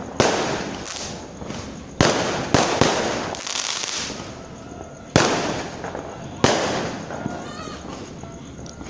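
Fireworks going off: five sharp bangs at irregular intervals, each trailing away in a rolling echo, with a brief hiss in between.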